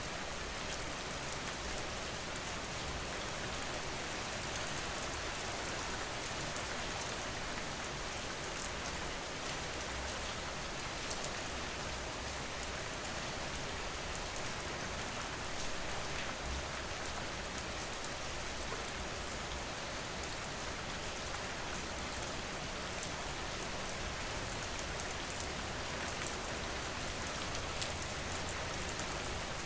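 Steady rain falling on a surface, an even hiss with fine scattered drop patter.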